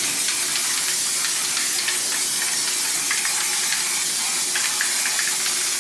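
Aerosol can of glitter spray paint spraying in one long, steady hiss.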